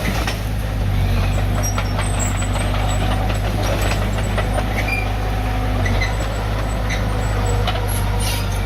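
Heavy diesel earthmoving machinery running steadily, with scattered metallic clanks and knocks.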